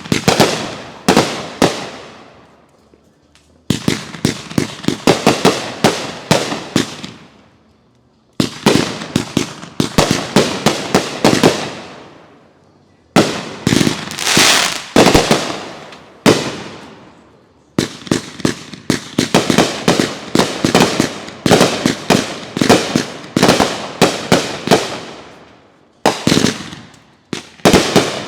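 Consumer fireworks going off in rapid volleys of sharp bangs and crackles, in groups lasting a few seconds with short lulls between them.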